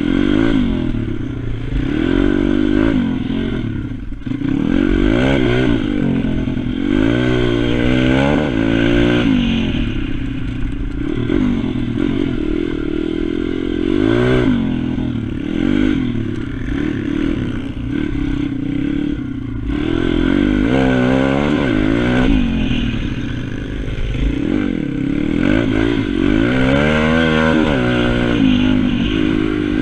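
Pit bike engine being ridden hard around a track, revving up and dropping off over and over, its pitch rising and falling every couple of seconds.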